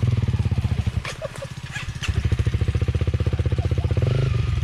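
Enduro dirt bike engine running at low revs with an even beat. It eases off about a second in and picks up again after another second.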